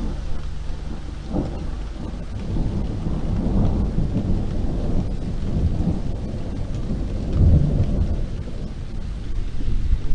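Steady rain falling, with low rolling thunder rumbling underneath that swells about four seconds in and again past seven seconds.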